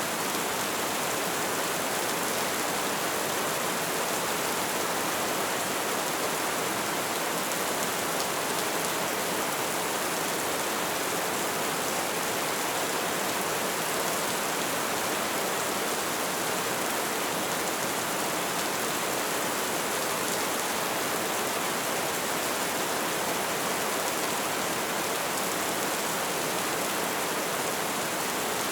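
Light rain falling steadily, an even hiss of many small drops with no letup.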